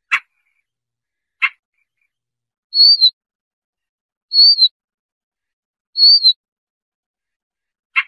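Siberian rubythroat calling: two short harsh calls, then three clear whistled notes, each with a quick second part, about a second and a half apart, and another harsh call at the end.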